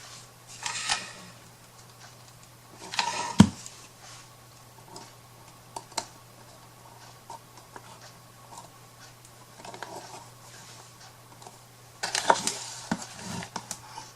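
Rustle and clatter of small craft pieces being handled on a worktable, in three short bouts, with one sharp knock about three and a half seconds in and scattered light clicks between; a steady low hum underneath.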